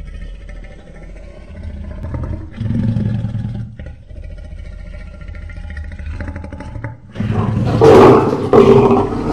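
Lion roaring: from about seven seconds in, a loud series of deep, pulsing calls, after a steady low rumble.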